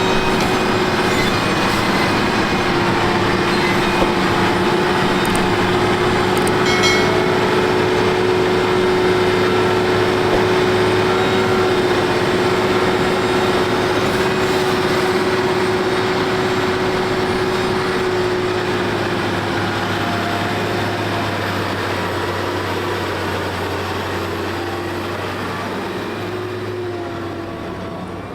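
Tractor engine running steadily with a held, slightly wavering whine, gradually fading over the last several seconds.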